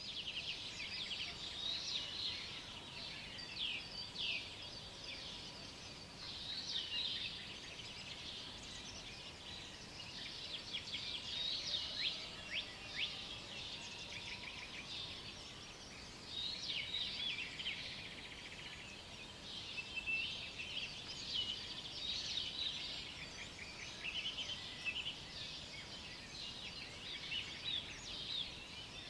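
Morning chorus of several small birds singing at once: dense overlapping high chirps, trills and quick down-slurred notes that keep going with short swells, over a faint steady background hiss.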